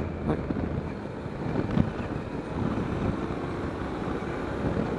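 Honda NC700X motorcycle's parallel-twin engine running steadily while riding, with wind rushing over the microphone. A short knock stands out a little under two seconds in.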